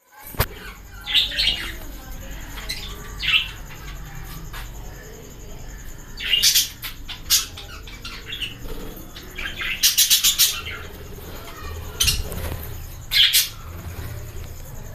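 A colony of budgerigars chirping and squawking in short bursts every second or two, over a steady low hum.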